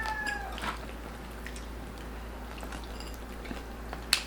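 Close-up chewing of crispy pork belly skin, a few sparse crunches and smacks. The tail of a rooster's crow fades out in the first half-second.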